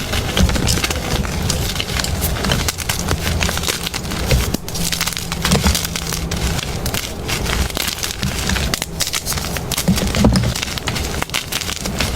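Blocks of gym chalk being crushed and crumbled by hand: a dense run of dry crunching and crackling.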